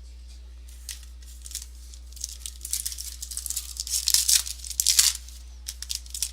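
Foil trading-card pack wrapper being torn open and crinkled, with irregular crackling rustles that thicken about two seconds in and are loudest around four to five seconds in.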